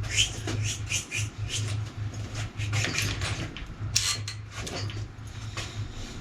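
A quick, irregular series of small clicks, taps and scrapes, like parts or tools being handled, over a steady low hum.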